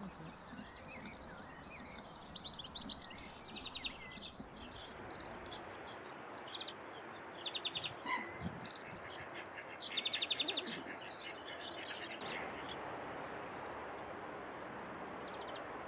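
Wild birds calling and singing over a steady background hiss: short, fast high trills and sharp, very high notes, repeated every second or two.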